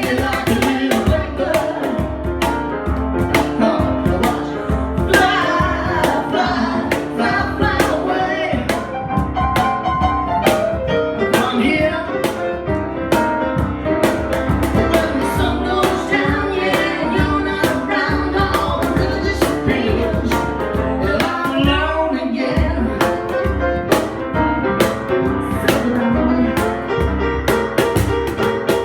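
A live band playing an instrumental passage of a blues-rock song, with a steady drum beat and bass under the melody.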